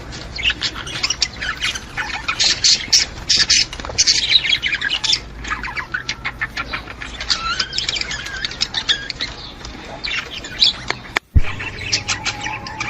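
Flock of budgerigars chattering and warbling, a dense mix of quick chirps, squawks and short whistles, with a momentary break near the end.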